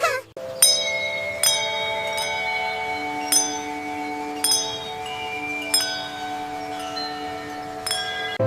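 Wind chimes ringing: about eight light metallic strikes at uneven intervals, each note ringing on and overlapping the others.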